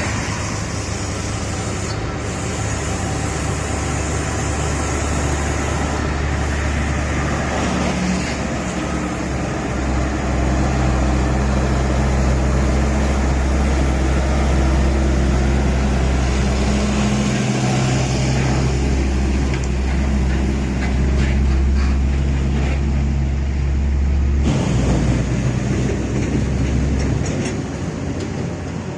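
Heavy road vehicle engine running in traffic, a deep steady hum that grows louder about a third of the way in and shifts abruptly near the end.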